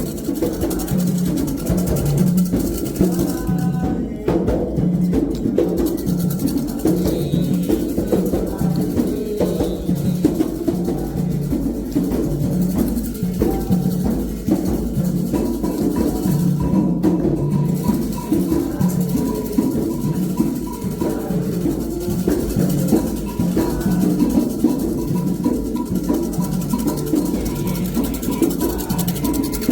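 Candomblé toque: a steady rhythm played on atabaque hand drums, running without a break.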